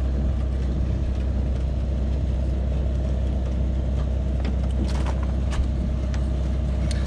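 Chopper box running with its power drive turning the unloading chain: a steady low machine drone, with a few light clicks and clanks from the chain and flights partway through and near the end.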